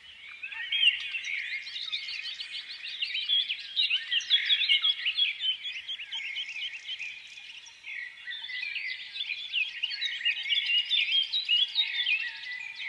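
A flock of small songbirds chirping together in a dense, continuous chorus of many overlapping short chirps. It thins out briefly just past the middle, then fills in again.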